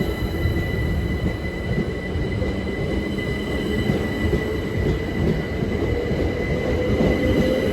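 Class 377 Electrostar electric multiple unit rumbling through the station at low speed, with a steady high squeal from the wheels over the rumble, growing slightly louder.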